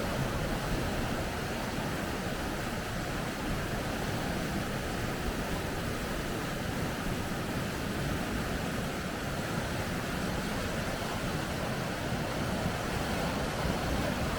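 Rushing water of river rapids, a steady, unbroken roar.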